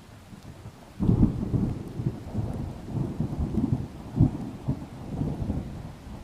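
Thunder: a clap breaks suddenly about a second in and rolls on in low, crackling rumbles for about five seconds before fading. Under it is a steady hiss of rain.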